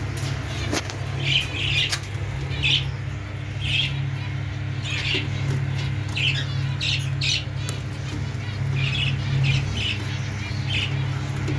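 Lovebirds giving short, shrill squawking calls, a dozen or so at about one a second, over a steady low hum.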